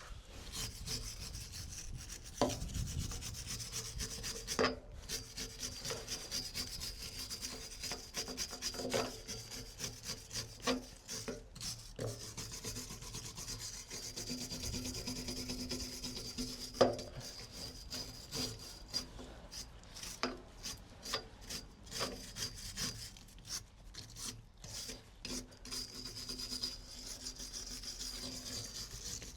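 Hand wire brush scraping rust and flaky paint off a steel Acrow prop yacht support in rapid back-and-forth strokes, with a few sharp knocks of the brush against the metal, the loudest about halfway through. The strokes become slower and more separate near the end.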